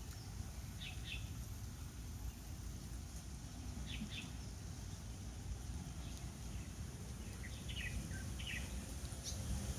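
A bird chirping in short paired notes, a few times, over a steady low rumble of wind on the microphone.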